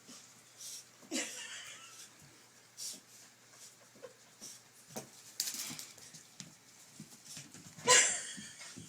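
A chihuahua and a kitten play-wrestling: irregular scuffles and short breathy huffs. The loudest burst comes about a second before the end.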